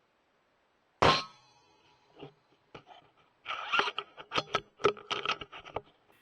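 A single sharp shot from a .25 Brocock Sniper SR air rifle about a second in, with a metallic ring after it, then a quick run of clicks and rattles.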